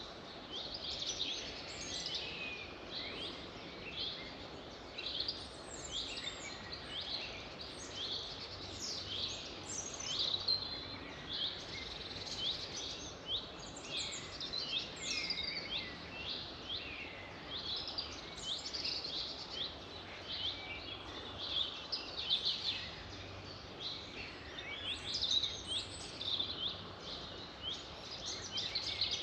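A chorus of several songbirds singing and chirping without pause: a dense stream of short, high, quickly falling notes, over a faint steady background hiss.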